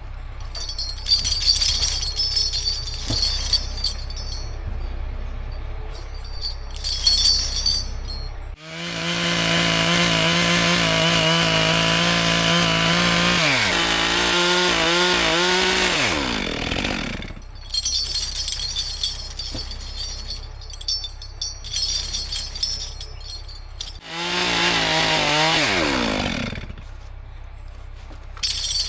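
Chainsaw idling, then held at full throttle for a cut of about five seconds before the revs drop and fall back to idle. A second, shorter full-throttle burst comes near the end and also falls away.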